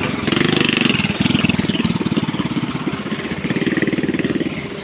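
Excavator's diesel engine running with a fast, even beat, its level swelling and easing every second or so as it works.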